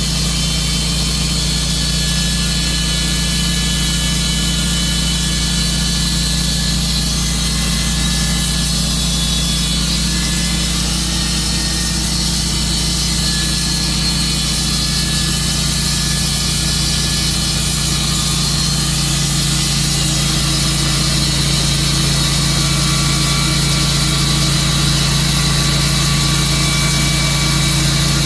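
Tru-Cut portable sawmill cutting through a large silver maple log: the saw's engine runs steadily under load while the blade makes a continuous, even cutting noise.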